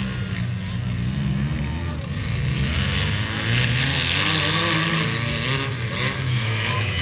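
Demolition derby cars' engines running and revving unevenly, several at once, getting louder between about three and five seconds in.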